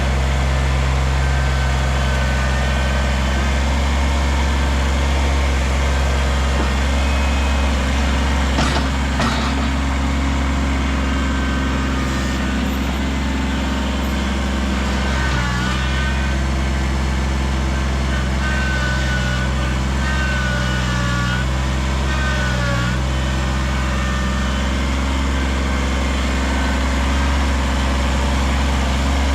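Kubota BX subcompact tractor's three-cylinder diesel engine running steadily, its note dipping briefly a couple of times as it works. There are a few knocks about nine seconds in and short wavering squeals in the middle.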